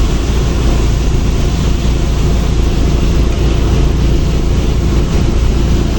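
Loud, steady rush of wind and road noise over a deep rumble, as heard riding in a moving vehicle.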